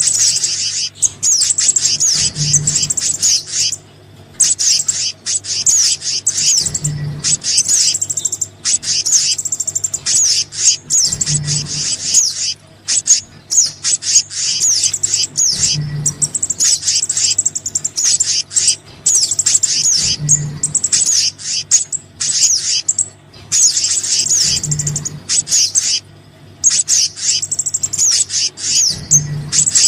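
A looped bird-lure recording of small birds, mixing sogon and kehicap calls. It plays a dense, rapid run of high chirps and twittering notes with brief pauses. A low thump comes about every four and a half seconds.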